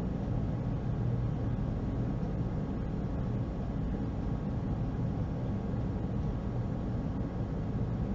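Steady low hum with a faint noise haze, unchanging throughout, with no strikes, chimes or voice.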